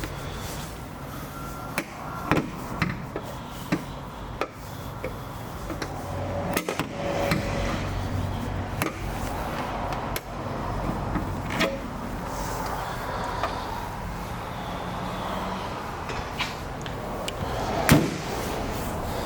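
Clicks and knocks of a Mercedes-Benz A-Class's doors and fittings being handled, with a sharp door-like knock near the end, over a steady outdoor background hum.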